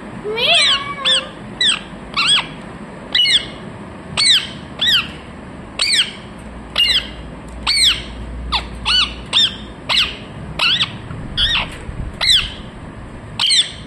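Pet parrot giving a long run of short, harsh squawks, one or two a second, each call sweeping down in pitch.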